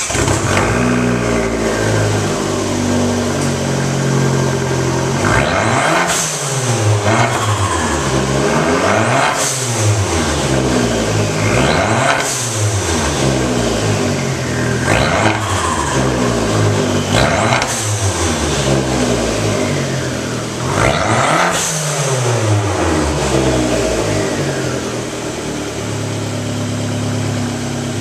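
2013 Fiat 500 Abarth's turbocharged 1.4-litre four-cylinder idling through an aluminium axle-back exhaust and a high-flow intake, then revved about six times, each rev rising and falling back, with a rushing hiss near the top of each one. It settles back to idle near the end.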